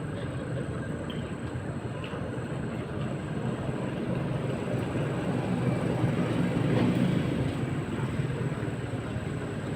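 Steady low rumble of a passenger ship's engines, swelling a little past the middle.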